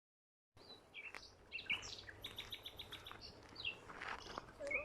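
Small birds chirping and calling, starting about half a second in: short high slurred notes, with a quick run of repeated chirps about two seconds in.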